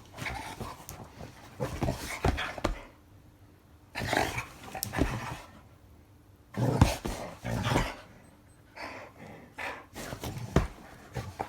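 A black Labrador and an older Weimaraner play-fighting. Dog vocal and scuffling noises come in several bursts of a second or so, with short pauses between.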